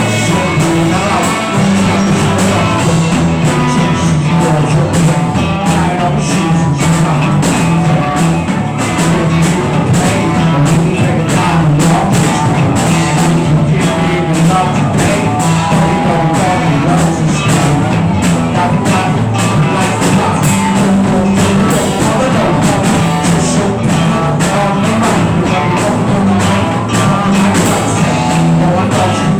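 Rock band playing loudly and steadily: a drum kit keeping a fast beat under guitar and bass.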